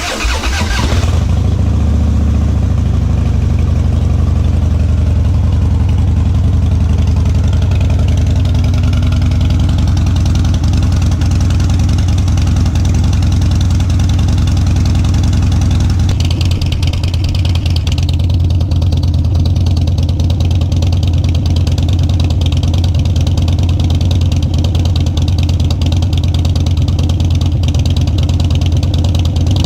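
Harley-Davidson Dyna Street Bob's Twin Cam 103 V-twin breathing through Vance & Hines Twin Slash slip-on mufflers, firing up at the start and then idling steadily.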